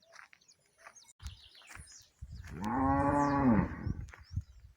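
A cow moos once, a single long call of about a second and a half starting a little after two seconds in, rising and then falling in pitch. Faint bird chirps are heard before it.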